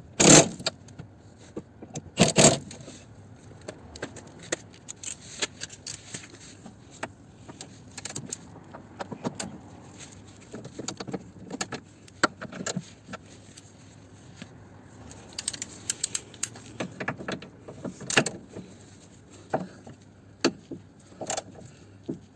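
Metal hand tools, a socket and ratchet among them, clinking and clattering in irregular taps and rattles while bolts are worked on. There are louder clanks at the start, about two seconds in and again near eighteen seconds.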